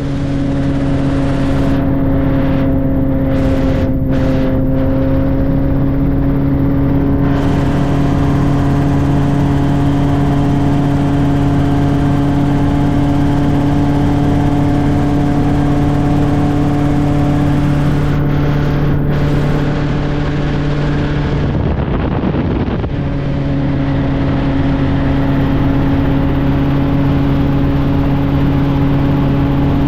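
Helicopter engine and rotor noise heard from aboard in flight: a steady, loud drone with several steady tones over a rushing noise, briefly dipping about two-thirds of the way through.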